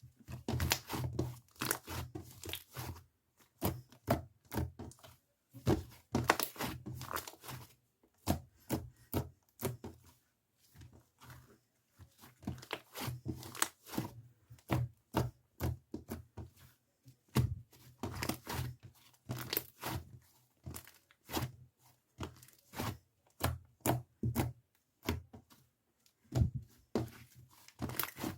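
Irregular clusters of crackling, tapping and rustling handling noises, with short pauses between them.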